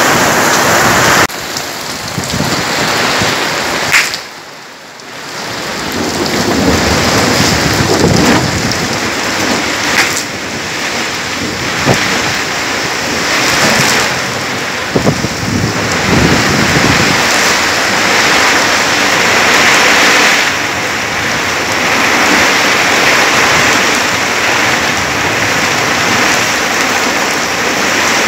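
Heavy rain pouring down in a thunderstorm, a dense steady hiss with low rumbles of thunder. The rain noise drops sharply about four seconds in and builds back over the next couple of seconds.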